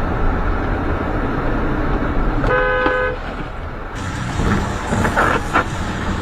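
A car horn sounds once, a short single honk about two and a half seconds in, over steady traffic and engine noise.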